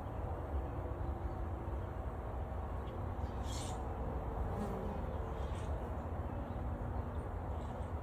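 Honey bees buzzing steadily around a newly installed hive, a continuous hum, with a low rumble underneath and a few short high chirps in the middle.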